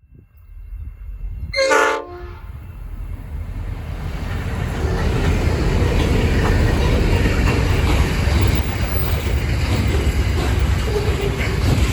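A short blast of a diesel locomotive's horn about two seconds in, then the rumble of a freight train led by three G class diesel-electric locomotives, growing louder over a few seconds as it nears and then running steadily past with its wagons.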